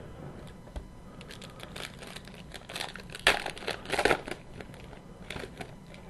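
A foil trading-card pack wrapper crinkling as it is torn open by hand, with scattered crackles and rustles that grow louder and busier about three to four seconds in.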